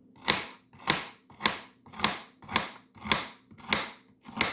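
Kitchen knife chopping baby carrots on a cutting board: eight even cuts, about two a second, each ending in a knock on the board.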